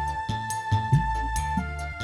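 Live Javanese panjak ensemble playing tabuhan: a held high melody note and a second melody line over low drum strokes in a steady rhythm.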